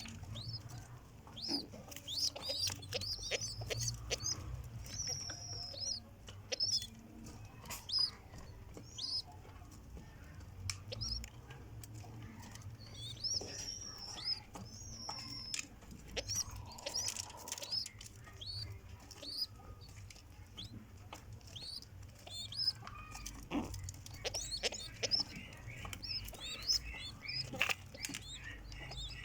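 Pigeons in their nest: repeated short high chirps throughout, with wing flapping and close rustling and knocks.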